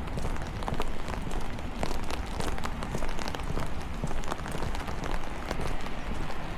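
Rain falling, with many sharp drops ticking close by over a steady low rumble.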